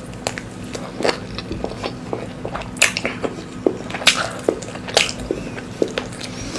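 Close-miked eating: chewing with wet mouth clicks and smacks, irregular, several a second.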